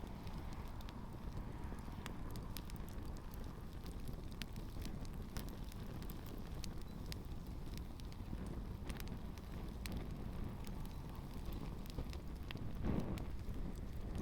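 Campfire crackling with frequent sharp pops and snaps as a pair of canvas-and-rubber Converse shoes burns in it, over a low steady rumble of the flames. The rumble swells briefly near the end.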